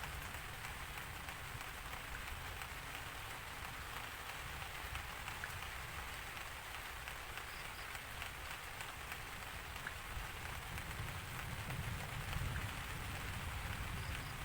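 Steady rain falling, a dense even hiss with fine scattered drop ticks over a low rumble that swells slightly near the end.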